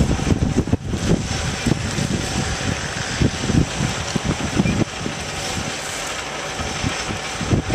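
Wind buffeting the microphone in irregular gusts over a steady rushing noise, easing off for a few seconds late on.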